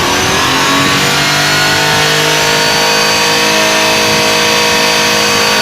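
An engine running at a held, raised speed, its pitch creeping up slightly over the first couple of seconds and then holding steady.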